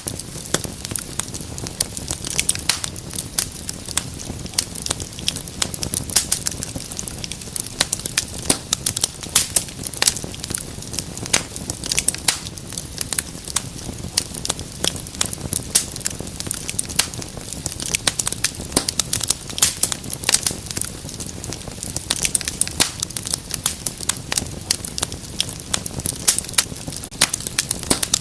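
Wood fire in a fireplace crackling steadily, with frequent sharp pops and snaps over a low rumble of burning.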